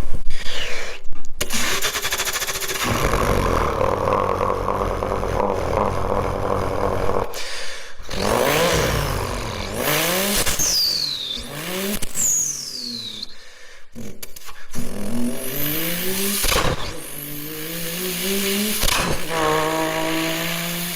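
Twin-turbo Toyota Supra engine revving and accelerating, its pitch climbing and dropping back as it runs through gears, with two falling high whistles from the turbos about halfway through. The sound breaks off briefly a few times between clips.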